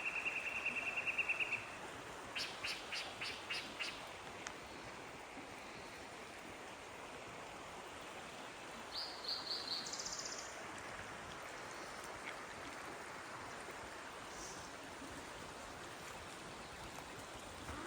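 Steady rush of flowing river water, with birds calling over it: a fast trill at the start, a run of about seven quick notes around three seconds in, and a high trill about nine seconds in.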